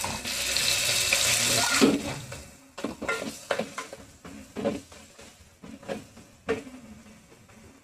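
Hot oil in an aluminium pressure cooker sizzling loudly as ginger-garlic paste goes in, dying down after about two seconds. Then a wooden spoon knocks and scrapes against the pot as the paste is stirred into the frying spices.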